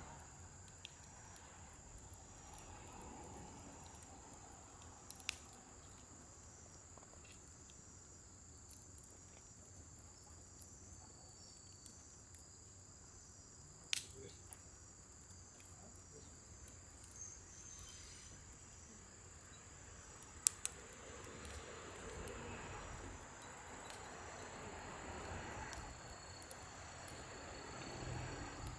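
Scrap-wood fire burning in a fire pit, giving a few sharp, isolated crackling pops (the loudest about halfway through and again a few seconds later) and a faint low rush of flame that swells near the end, over a steady high-pitched trill.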